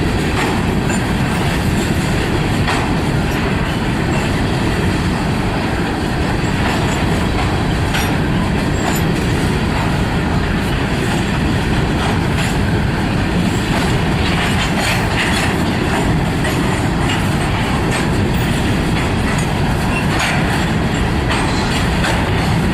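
Freight train cars rolling past on the track: a steady, loud rumble of wheels on rail, with scattered clicks from the wheels.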